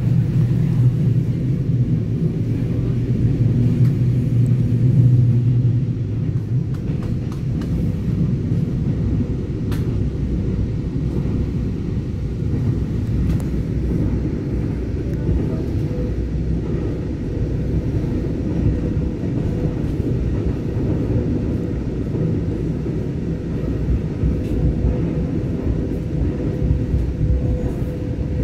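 Cabin running noise of a Taiwan Railway EMU900 electric multiple unit under way: a steady low rumble of the train rolling on the track, with a faint steady hum over it. A heavier low drone eases off about six seconds in.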